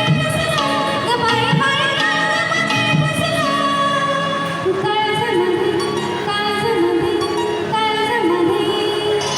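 Indian song with a singer's voice over percussion, played loud through a PA sound system.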